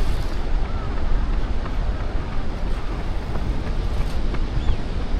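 Wind buffeting the microphone of a body-worn action camera on a moving runner: a steady, loud low rumble, with a few faint short chirps above it.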